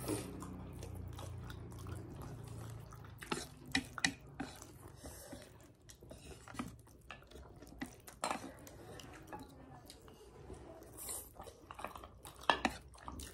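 Scattered light clicks and clinks of eating utensils knocking against dishes during a meal.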